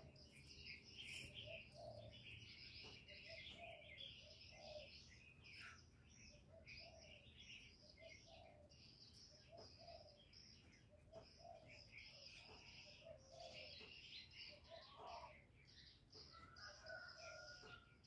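Faint chirping of small birds, a busy run of high chirps, with short lower notes repeating about once a second.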